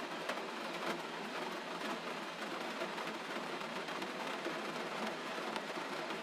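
Steady gentle rain falling, an even hiss dotted with the faint ticks of single drops.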